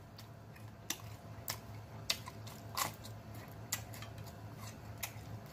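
A person chewing a mouthful of parmesan-crusted pork chop close to the microphone, with sharp wet mouth clicks about once or twice a second over a faint steady low hum.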